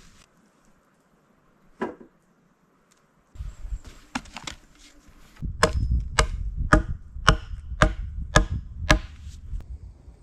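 Wood being chopped with a blade, hack by hack. There is a single blow about two seconds in, a couple more around four seconds, then a steady run of about seven blows at roughly two a second.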